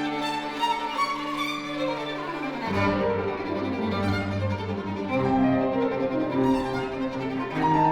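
Violin and cello playing classical chamber music in sustained bowed notes. A line slides downward about two seconds in, and low cello notes enter beneath it.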